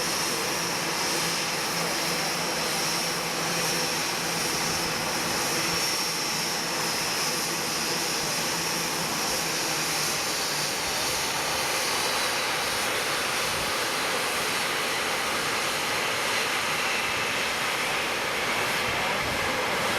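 Jet airliner's turbofan engines, a Boeing 787-10's, running steadily: a continuous rush of engine noise with a high whine that drifts slightly lower.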